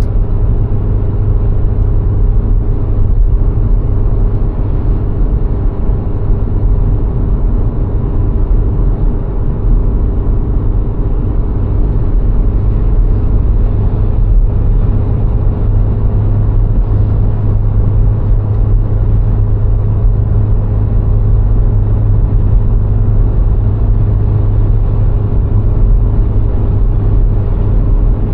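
A VW Golf IV 1.6's engine and tyre road noise while driving at a steady pace: a loud, even low rumble with a faint steady hum over it.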